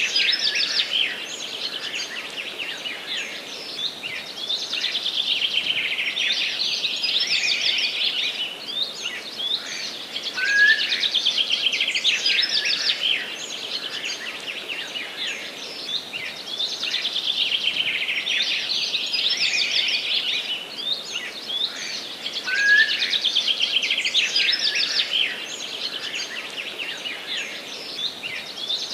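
Songbirds singing in a forest: dense, fast trilling and chirping phrases over a faint steady hiss, with the same run of phrases coming round again about every twelve seconds.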